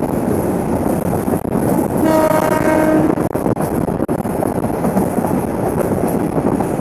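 Bangladesh Railway passenger train running, a loud continuous rumble and rush of wind and track noise. Its horn sounds once, about two seconds in, for about a second.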